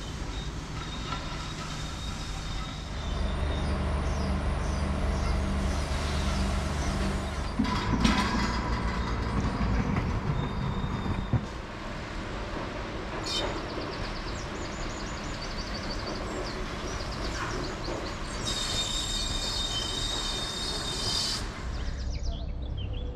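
Low, steady mechanical rumble that grows louder a few seconds in and eases off around the middle, with a high-pitched squeal for about three seconds in the later part.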